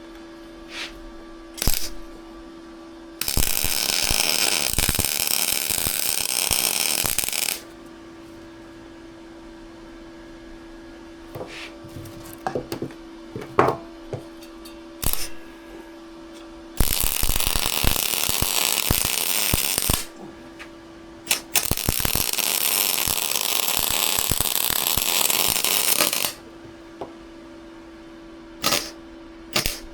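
Welding arc crackling in three runs of a few seconds each, laying beads on a steel exhaust downpipe, with a steady hum and light clicks and taps between the runs.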